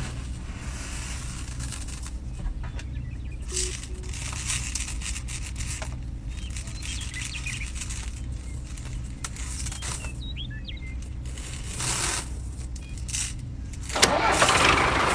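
A vehicle engine running steadily with a low rumble that surges now and then, with a few bird chirps. About 14 seconds in, a sudden louder, rougher noise comes in.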